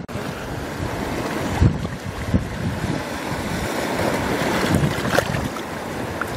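Wind buffeting the microphone in uneven low gusts over a steady hiss of surf on a beach.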